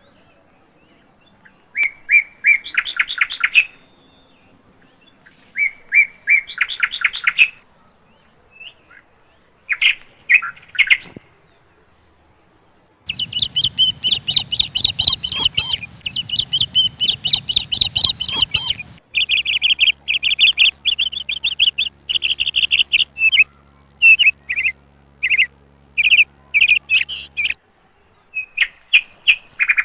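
Small birds chirping in rapid strings of short, high calls. The calls come in several bouts with pauses, then run almost without a break through the middle, where a low rumble and then a steady low hum lie under them.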